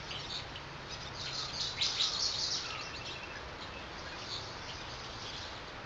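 Several birds chirping and calling, busiest about two seconds in, over a steady background hiss.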